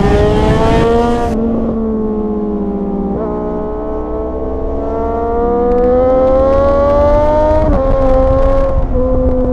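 Triumph motorcycle engine and exhaust under way, the engine note climbing steadily as it accelerates, with a sudden drop in pitch about three seconds in and again near eight seconds, as it shifts up a gear.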